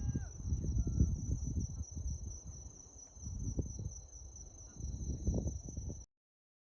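Steady high chirring of a cricket chorus, with gusts of wind rumbling on the microphone; both cut off abruptly about six seconds in.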